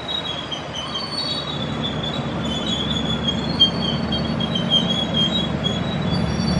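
Passenger train coaches rolling past close by, their steel wheels squealing in a wavering high pitch over a low rumble of wheels on rails that grows louder near the end.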